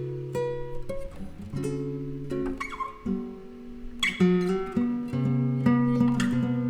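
Two guitars, a nylon-string flamenco guitar and a Telecaster electric, playing a jazz duo: a picked melody over held low bass notes, with a bright chord struck about four seconds in.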